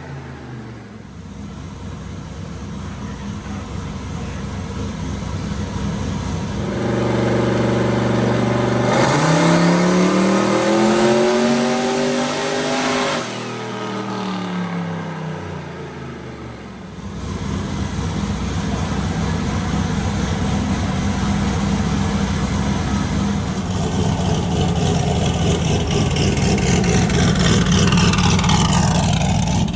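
Turbocharged small-block Ford V8 pickup making a full-throttle pull on a chassis dyno. The engine's pitch climbs for about six seconds, cuts off sharply as the throttle closes, and falls away. It then runs on steadily, with a high whine falling in pitch near the end.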